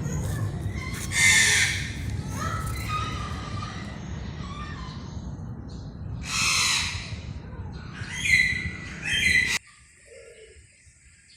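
Peafowl calling: loud calls about a second in, again past the middle and twice near the end, over a steady low rumble. The sound cuts off abruptly near the end, leaving only faint sounds.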